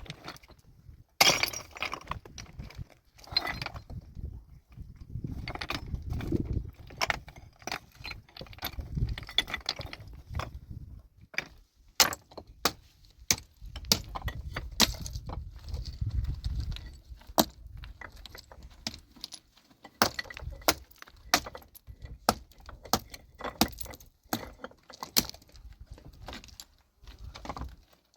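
Stones and rock fragments knocking and clattering against one another as rock is broken and cleared, with many sharp clicks and knocks at irregular intervals.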